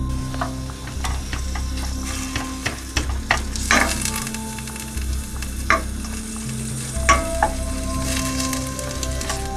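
Sliced onions sizzling in olive oil in a stainless steel pan, stirred with a wooden spoon that knocks and scrapes against the pan every second or so.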